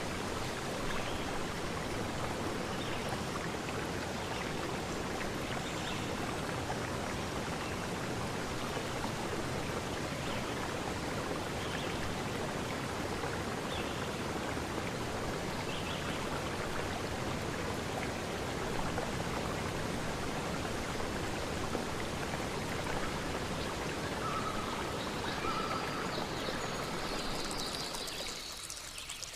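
River stream rushing steadily over rocks, with a few faint, short bird calls now and then. Near the end the water sound grows quieter and thinner.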